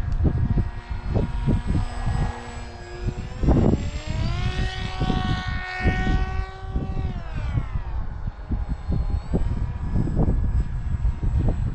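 Foam combat wing RC plane's motor and propeller whining through a fly-by: the pitch climbs, then drops away about eight seconds in as it passes. Gusty wind buffets the microphone throughout.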